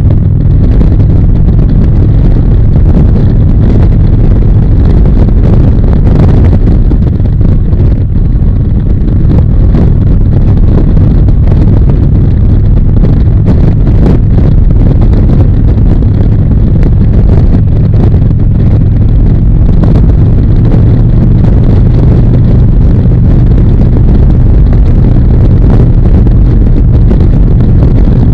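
Harley-Davidson V-twin motorcycle engine running steadily at cruising speed, loud, with wind buffeting the microphone.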